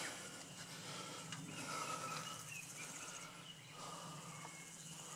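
Faint birdsong outdoors: a few short whistled notes over a steady high hum.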